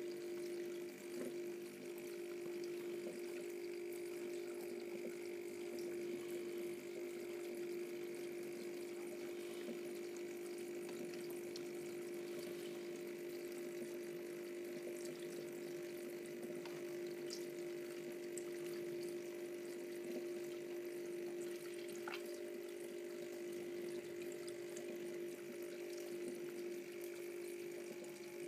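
Fish tank sludge cleaner's electric water pump running with a steady hum, water flowing and trickling through it.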